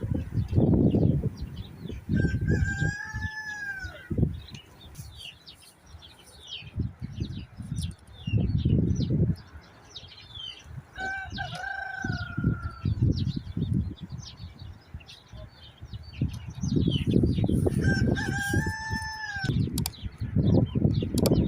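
A rooster crowing three times, each crow a drawn-out arching call, with small birds chirping throughout. Between and under the crows come loud bursts of low rumbling noise.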